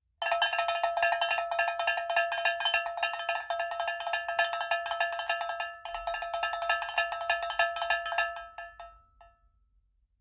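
Rapid, fast-repeating metallic strikes, all ringing on the same pitch, like a small bell or metal percussion struck quickly and continuously. It breaks off briefly about six seconds in, then carries on and dies away near the end.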